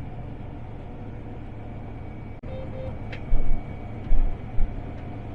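Combine harvester running while cutting wheat: a steady mechanical drone with thin high whines, broken by a few short, heavy low thumps a little after three and four seconds in.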